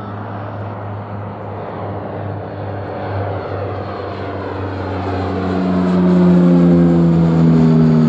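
Airplane engines passing close by, growing louder and peaking near the end, their tones sliding steadily down in pitch as the aircraft goes past.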